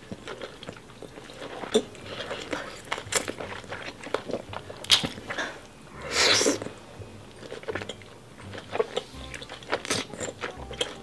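Close-miked wet chewing and lip-smacking of a sauce-drenched sausage, with many sharp mouth clicks. About six seconds in there is a louder, longer slurp as sauce is sucked off the fingers.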